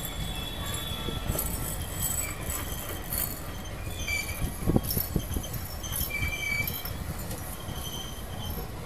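Indian Railways passenger coaches rolling past: a steady low rumble of wheels on rail with clicks and rattles, a few brief high squeals, and one louder knock about halfway through.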